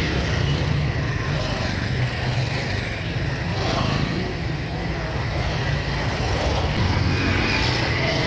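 Steady engine and road noise of a vehicle being driven, a continuous low rumble with no sharp events.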